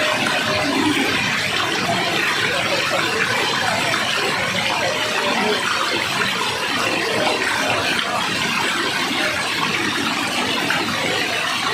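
Water rushing steadily, an even hiss with no breaks or distinct splashes.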